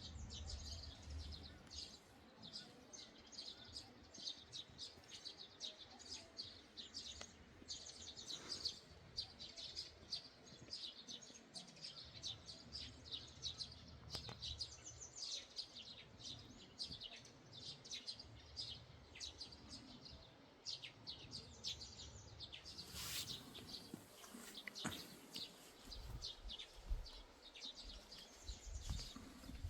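Songbirds chirping in a fast, continuous stream of short high notes. About three-quarters of the way through there is a brief rush of noise, and low rumbling comes in near the end.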